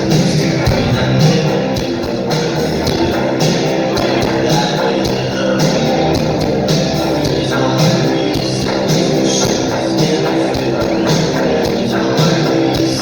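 Rock band playing live: electric guitars and a steady drum and cymbal beat.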